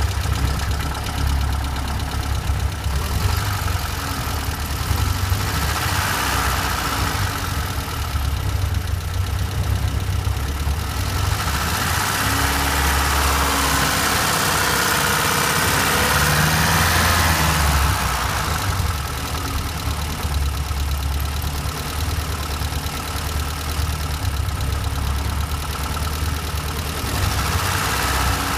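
Citroën HY van engine idling steadily, running a little louder for several seconds around the middle.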